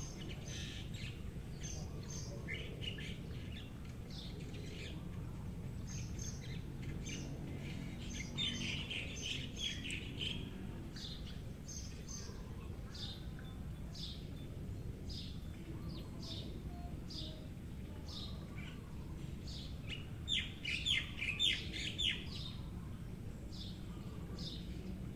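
Small birds chirping again and again in short high calls, with two louder flurries of chirping, about eight seconds in and about twenty seconds in, over a steady low background rumble.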